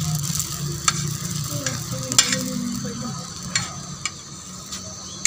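Bread slices frying in ghee on a tawa, sizzling steadily, with several sharp clicks. The sizzle eases a little after a few seconds.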